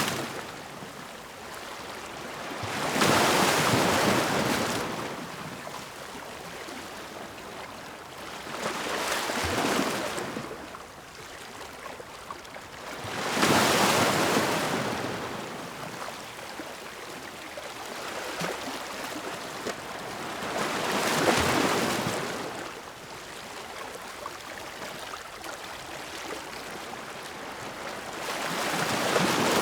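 Ocean waves breaking: about five surges of surf a few seconds apart, each swelling and fading, with a softer steady wash between them.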